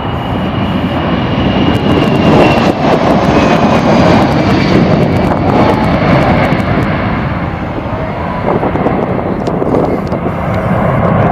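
Boeing C-17 Globemaster III's four turbofan jet engines running loud as the airlifter departs. A high engine whine sinks slightly in pitch about two to three seconds in.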